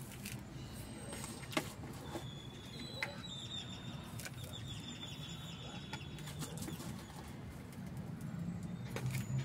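Small birds singing in the evening, a high trilling song starting about two seconds in and running for a few seconds, with a few faint clicks and a steady low hum underneath.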